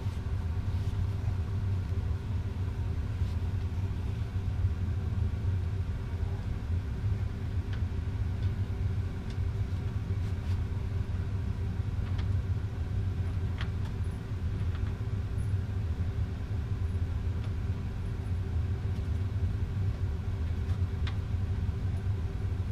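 Steady low rumble with a constant hum and a few faint, scattered clicks.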